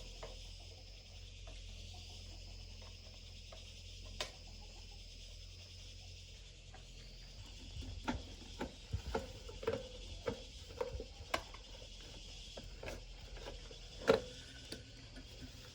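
Steady background chirring of crickets. From about eight seconds in there are scattered light clicks and taps, the loudest near the end.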